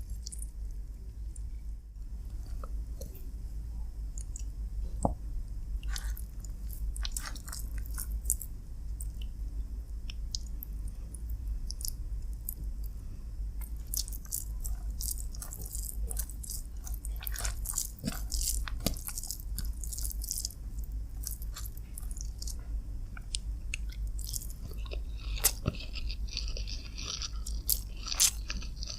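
Close-up eating sounds of a person chewing and biting chicken and rice: wet mouth clicks and smacks, growing busier near the end, over a steady low hum.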